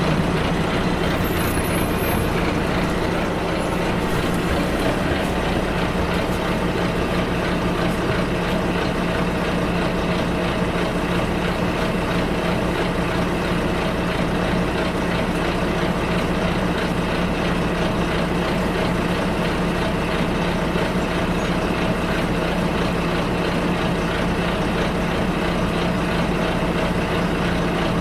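Bus ride heard from inside the bus: a steady low engine hum under an even wash of road and cabin noise, with no change through the stretch.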